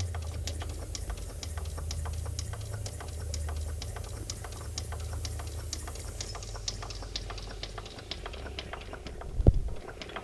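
Model live steam engine belt-driving a die-cast model washer's flywheel and gears: a rapid, regular ticking over a steady low hum. A single thump comes near the end.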